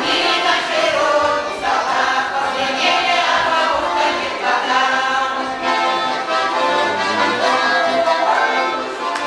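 Folk ensemble singing a Russian folk song together in chorus, with accordion accompaniment.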